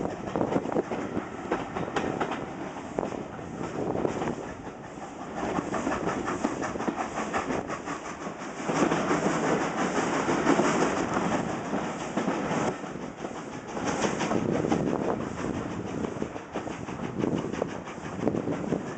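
Steam-hauled passenger train running, heard from an open carriage window: the coach wheels clatter over the rail joints with a steady rush of running noise. It grows louder for a couple of seconds about halfway through.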